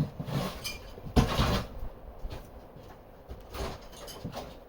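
Shovels scraping and scooping debris off an RV floor: a sharp knock at the start, a louder scrape and rush of tumbling rubbish about a second in, and a few softer scrapes near the end.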